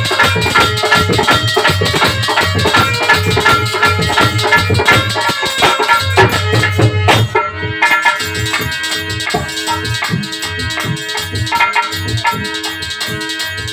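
Instrumental interlude of Indian folk devotional music: a fast hand-drum rhythm with other percussion, joined by long held melody notes from about eight seconds in.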